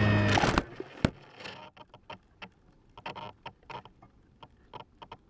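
Electric motor and propeller whine of an FPV flying wing cutting off about half a second in, then a single sharp knock about a second in, followed by faint, irregular ticks and rustles.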